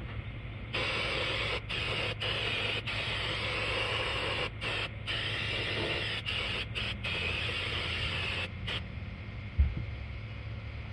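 Aerosol can of brake cleaner spraying in one long hiss of about eight seconds, broken by several brief releases of the nozzle. A single sharp knock follows near the end.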